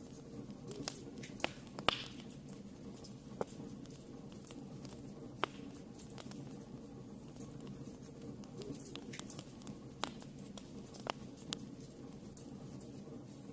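Wood fire burning in a fireplace: a steady low rumble with irregular sharp crackles and pops, the loudest about two seconds in.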